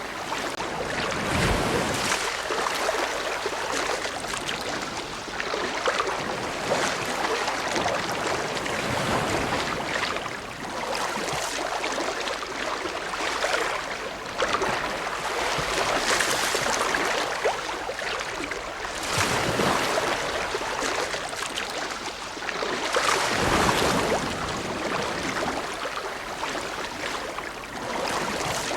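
Ocean surf: waves breaking and washing in as a continuous rush that swells every few seconds.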